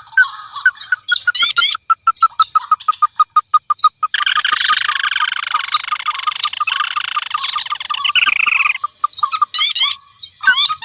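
Layered lure recording of paddy-field rail and crake calls: quick upslurred whistles and a rapid train of short repeated notes, about ten a second. From about four seconds in, the calls thicken into a dense, overlapping chorus that breaks off near the end, leaving the scattered rising whistles again.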